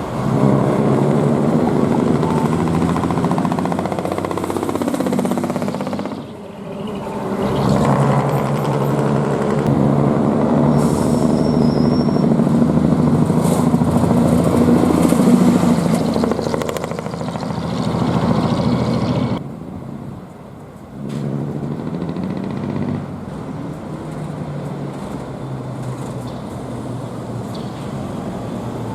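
Dekotora truck's diesel engine with a split exhaust manifold (mani-wari) and chimney-stack muffler, running with a deep, droning exhaust note. It drops off briefly about six seconds in and again about twenty seconds in, then picks back up.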